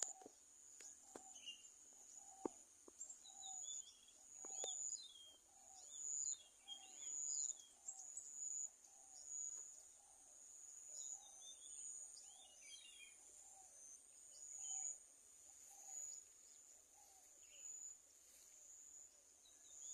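Outdoor nature ambience: a high steady insect trill that swells in pulses, birds giving short falling chirps in scattered bursts, and a low note repeated about once a second. A few faint clicks come near the start.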